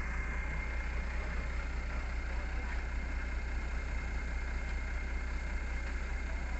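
An engine idling steadily: an even low hum with a thin high whine running through it and no changes in speed.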